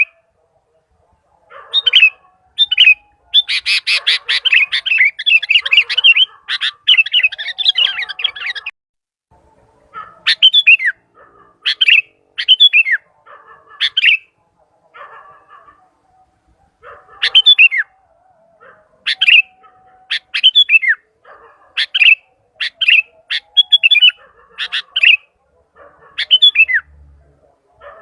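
Sooty-headed bulbul (kutilang) calling loudly. About three seconds in comes a dense run of chattering calls lasting some five seconds, followed by short separate calls, one or two a second, each a quick falling note.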